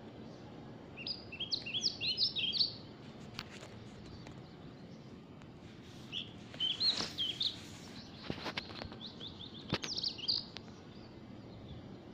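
Birds chirping: three bursts of quick, high chirps, about a second in, around six seconds in and around nine seconds in, over a steady background hiss with a few faint clicks between the bursts.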